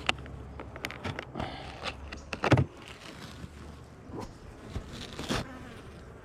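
Beekeeping hive being worked by hand: scraping and clicking of frames and hive parts, with two louder knocks about two and a half and five seconds in.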